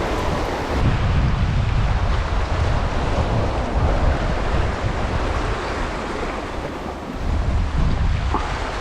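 Sea waves washing against the rocks, with wind buffeting the microphone in a steady, uneven low rumble.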